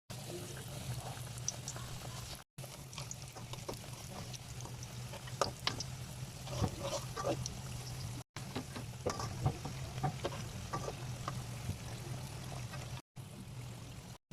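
Kitchen handling noises: scattered light taps and clicks over a steady low hum, cutting out briefly three times.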